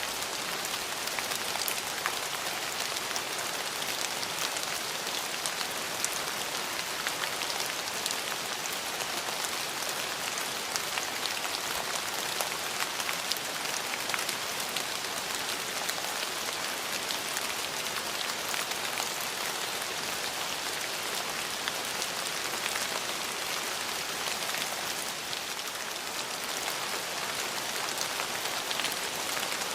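Steady rain falling on a surface, an even hiss with faint drop ticks scattered through it.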